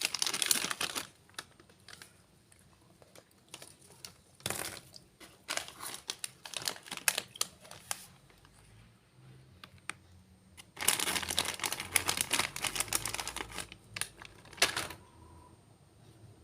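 Plastic snack packet crinkling as it is handled, in irregular bursts of crackling with scattered clicks, the longest about two thirds of the way through.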